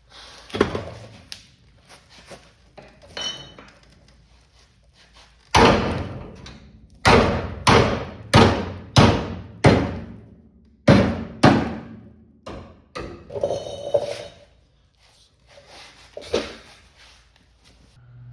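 Hammer blows on metal: scattered knocks, then a run of about ten strikes roughly two a second in the middle, each ringing briefly before fading.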